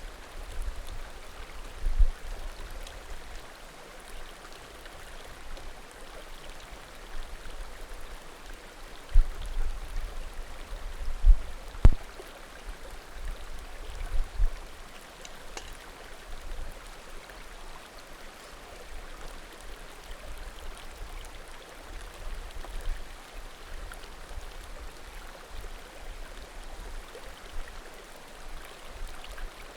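Small mountain creek murmuring steadily, with the bonfire's firewood giving an occasional faint pop. A few short low thuds stand out, once near the start and several in the middle.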